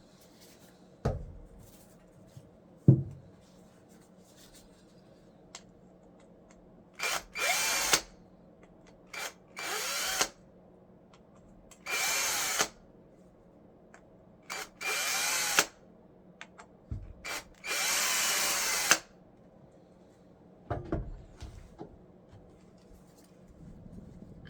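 Power drill running in short bursts of about a second each, about five times, with a steady whine in each run and brief blips before some of them. Two knocks come in the first few seconds.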